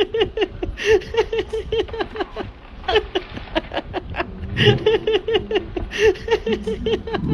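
A person laughing in rapid runs of short ha-ha pulses, in several bouts with brief breaks.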